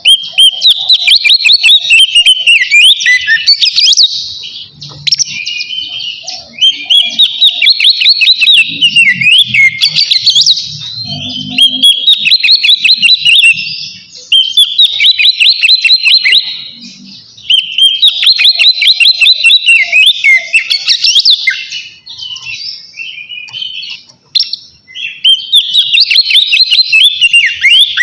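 Oriental magpie-robin singing loud, full song ('ngeplong'): bursts of rapid, varied whistles and trills a few seconds long, with brief pauses between them.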